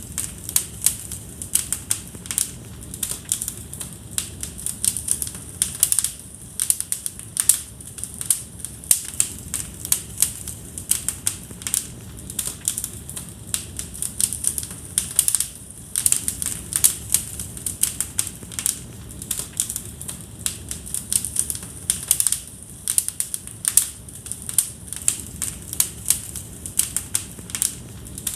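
Fire crackling in a fireplace: irregular sharp pops and snaps, several a second, over a low steady rush of the flames.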